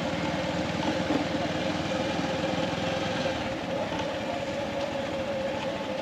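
Motorcycle engine running as the bike rides off, its firing pulses steady and then easing about three and a half seconds in, with road and wind noise.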